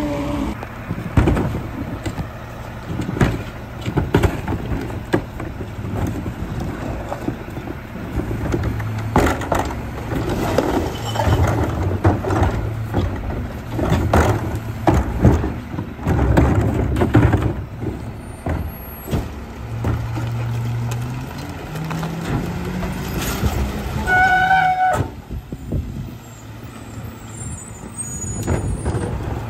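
Garbage truck's engine running steadily under repeated bangs and clatter of bins being dumped and thrown about in the first half. Later the engine revs up briefly, and a short high squeal follows.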